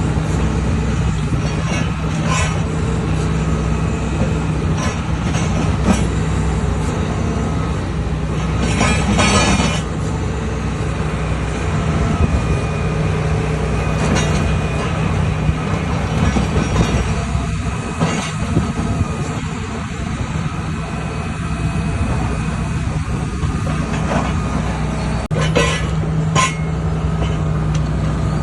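Heavy diesel construction machinery running steadily, with a constant low hum and a few sharp knocks from the working attachment.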